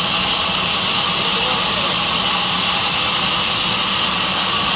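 Sawmill saw machine running steadily, a constant loud hum with a strong high hiss.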